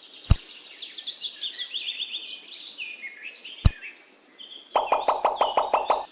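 Birds chirping in quick runs of short, falling calls, broken by two sharp clicks. Near the end a rapid, evenly pulsing rhythm comes in.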